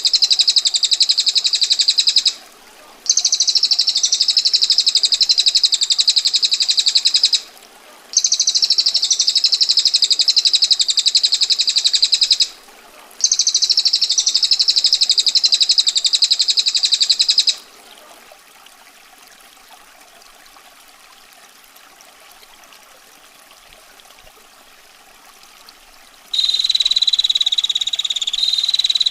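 A small songbird gives four long, very rapid high-pitched rattling trills, each lasting about four seconds with brief pauses between them. Then comes a stretch of soft natural water sound. Near the end a different, buzzier rapid call begins.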